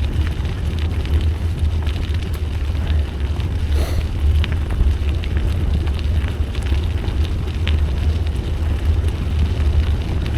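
Wind rumbling steadily on the microphone while cycling, over the continuous hiss of bike tyres rolling on a gravel trail, with scattered small ticks.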